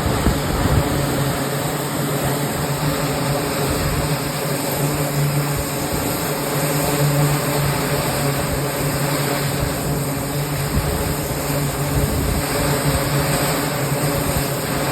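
Aircraft engines running steadily on an aircraft carrier's flight deck during flight operations: a constant loud drone with a steady hum and an uneven low rumble underneath.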